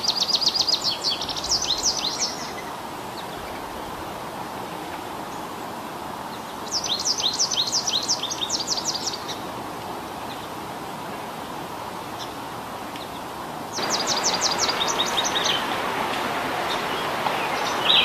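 A bird calling in three bouts, each a rapid run of high, clipped notes lasting about two and a half seconds, spaced roughly six seconds apart, over a steady outdoor hiss that gets louder near the last bout.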